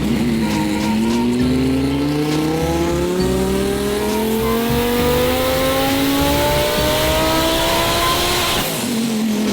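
Twin-turbocharged Audi R8 V10 making a full-throttle pull on a dyno: the engine note climbs steadily for about eight seconds, then drops off sharply near the end as the throttle closes.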